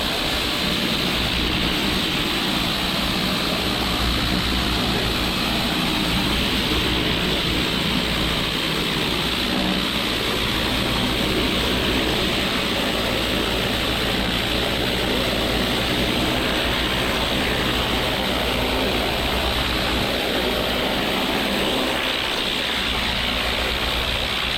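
Gas-engine pressure washer running steadily under load, its engine hum beneath the constant hiss of the high-pressure water jet.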